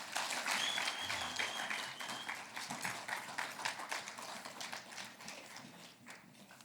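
Audience applauding, starting at full strength and dying away over about six seconds, with a high held note heard briefly about half a second in.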